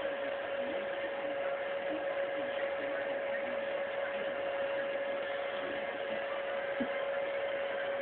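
Hair dryer running steadily: a constant hum over the rush of air.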